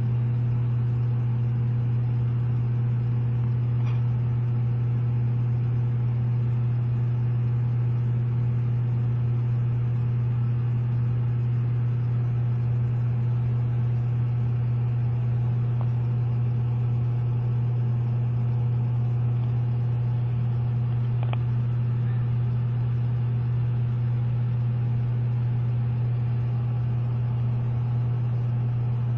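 Steady low hum with faint overtones, unchanging throughout, with a few faint clicks at about 4 and 21 seconds in.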